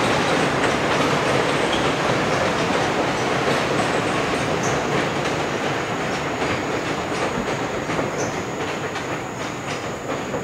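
Passenger coaches rolling across a steel truss railway bridge, wheels clicking over the rail joints, the rumble slowly fading as the last coach clears the bridge.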